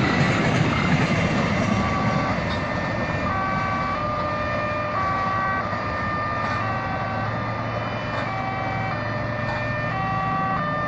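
Passing train noise dying away, then a simple electronic tune of clear beeping notes, each held about half a second, over a steady low hum.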